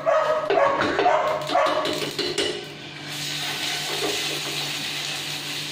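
A dog barking several short times, then from about three seconds in ginger-garlic paste sizzling steadily in hot oil in a frying pan as it is stirred with a wooden spoon.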